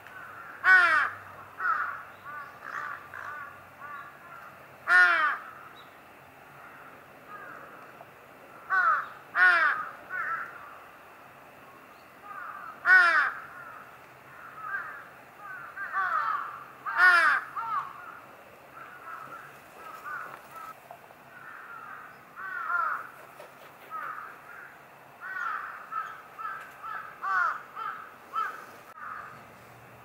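Harsh bird calls repeating throughout: about six loud, falling calls, with many softer calls in between.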